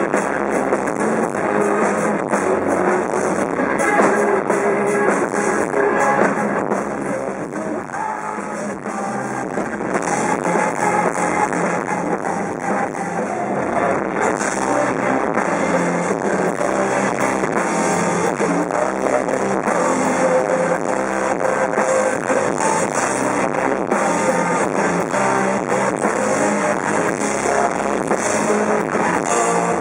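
Rock band playing live, with electric guitars driving a continuous, dense wall of sound; the loudness dips briefly about eight seconds in.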